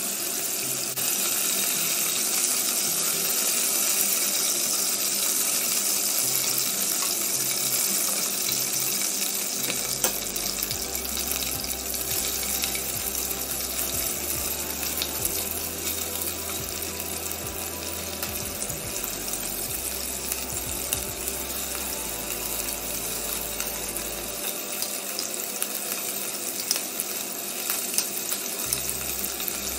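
Cubes of marinated beef frying in oil and butter in a pot: a steady sizzle with scattered small pops and crackles.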